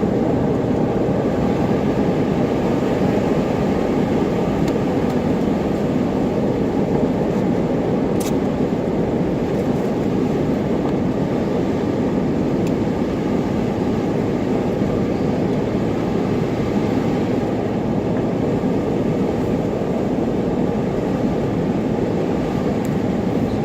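Steady drone of a car driving along, heard from inside the cabin: engine and tyre noise at an even speed, with one faint click about eight seconds in.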